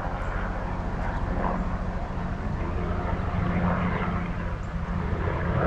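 Boat motor idling steadily, a low even engine drone.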